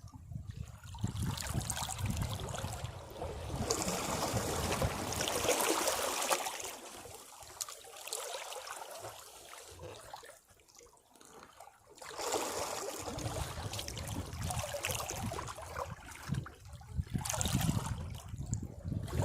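Sea waves washing against rocks: two surges of rushing water with a low rumble, separated by a quieter lull in the middle as the water drains back.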